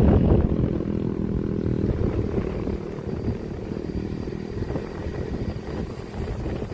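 A train passing at speed: the diesel locomotive's engine drone is loudest at first, then the carriages' wheels rumble over the rails as the sound slowly fades.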